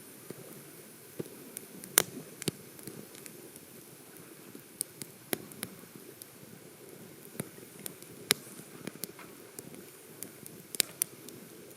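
Wood campfire crackling: irregular sharp pops and snaps, a few louder ones about two seconds in and near the end, over a low steady rush.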